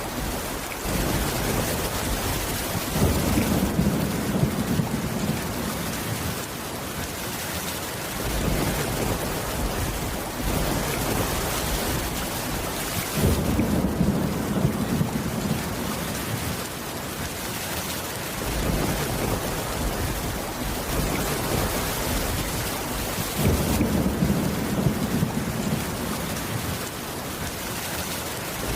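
Steady rain falling, with low rumbles of thunder swelling up about every ten seconds, three times.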